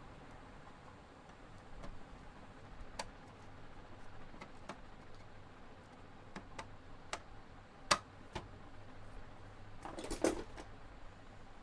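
Scattered sharp clicks and taps of small hard objects being handled on a workbench, about ten of them, with a short louder clattering rattle near the end.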